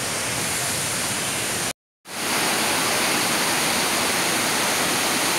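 Waterfall rushing steadily. The sound drops out completely for a moment a little under two seconds in, then comes back slightly louder.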